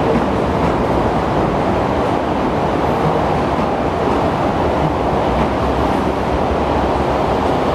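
SP-1900 electric multiple-unit train moving on depot track, a steady running noise with no distinct knocks or squeals.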